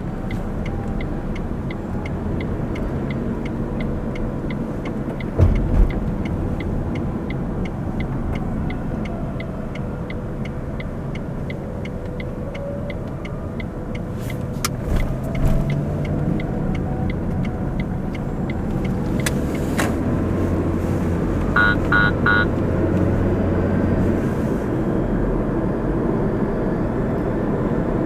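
Car driving, with steady engine and road noise. A fast, even ticking runs through the first half, a few knocks come around the middle, and three short beeps sound about twenty-two seconds in.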